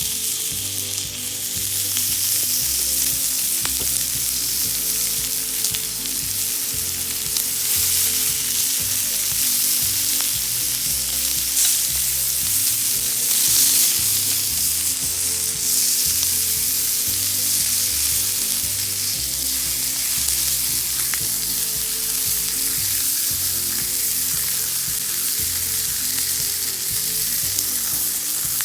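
Food sizzling steadily on a hot thick iron griddle plate, with quiet background music underneath.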